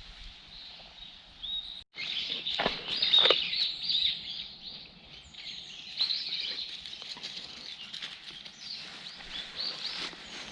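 Small birds chirping and twittering in quick, high calls, with rustling and light steps in the undergrowth. There is a brief gap about two seconds in, after which the chirping gets louder.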